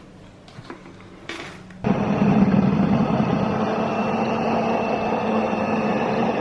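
A few light kitchen clicks, then about two seconds in an electric mixer switches on and runs steadily with a low motor hum, beating softened butter into the icing mixture.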